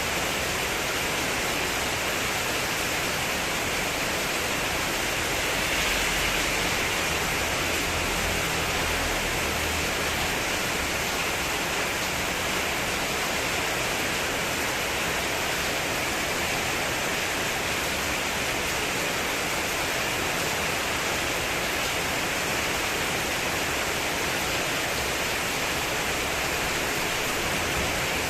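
Heavy rain pouring steadily onto a metal-sheet (spandek) terrace roof in a windstorm. There is a brief swell with a low rumble about six seconds in.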